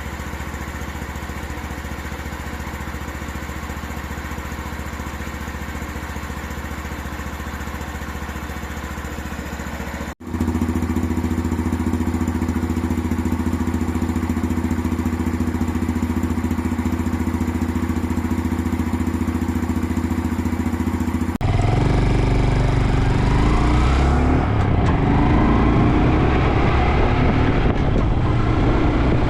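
Honda Dax 125's single-cylinder four-stroke engine and exhaust idling steadily, in two takes with a short break about ten seconds in, the second louder. About twenty seconds in it changes to the bike riding: engine pitch rising and falling through the gears, with wind on the microphone.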